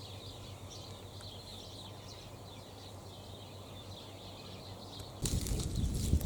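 Faint birdsong, many short high chirps, over a low steady background hum. About five seconds in, a sudden loud rustling, crackling noise starts and carries on.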